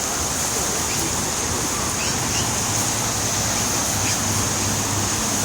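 Steady, unbroken rushing of fast-flowing floodwater.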